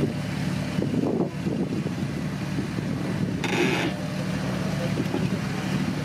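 Off-road 4x4's engine running steadily, with a brief hiss about three and a half seconds in.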